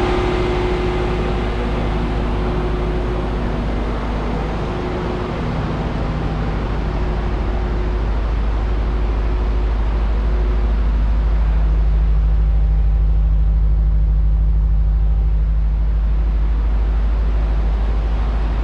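A car engine running at steady speed, with a strong, constant low rumble.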